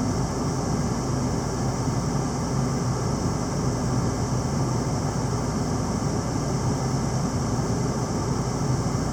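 Steady background noise: an even hiss and rumble with a low droning hum underneath, unchanging throughout.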